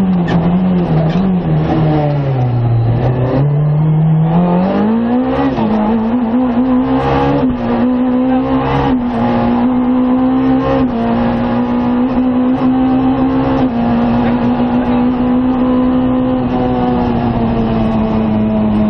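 Rally car engine heard from inside the cockpit at speed, with road noise underneath. The revs dip for a slower bend about two to three seconds in, climb again as the car accelerates, then hold high and steady.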